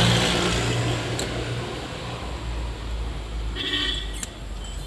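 A vehicle's engine rumble fading away, then a short horn honk about three and a half seconds in.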